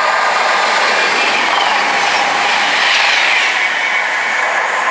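Virgin Voyager diesel multiple unit running through the station at speed and drawing away, its noise on the rails loud and steady, with a falling whine in the middle.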